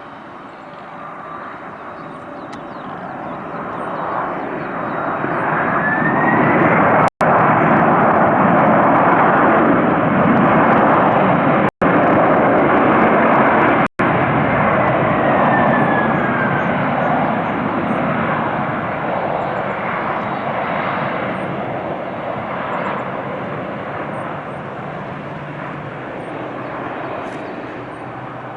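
Boeing 767-300 jet airliner passing close by, its twin turbofan engines building to a loud peak over several seconds and then slowly fading away. An engine whine rises in pitch as the aircraft approaches and falls as it moves off. The sound cuts out to silence for an instant three times around the peak.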